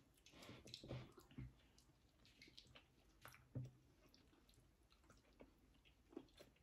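Faint mouth sounds of people eating plum: scattered soft chewing with a few small wet clicks and smacks, loudest about a second in and again around three and a half seconds in.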